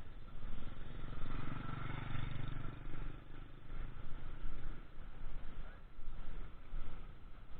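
An engine passes by: a low hum that swells about a second in and fades after about three seconds, over steady outdoor background noise.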